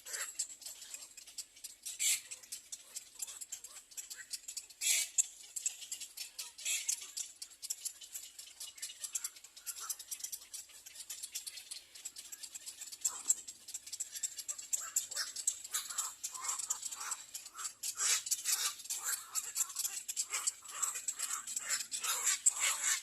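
Little egret nestlings begging for food: a dense run of short, raspy, ticking calls, busier and fuller near the end.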